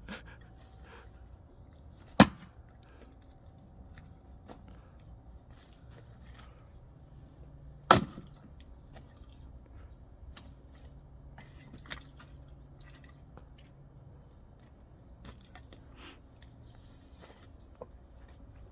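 Axe splitting firewood: two loud, sharp strikes about six seconds apart, then a lighter knock a few seconds later, with small clicks of wood in between.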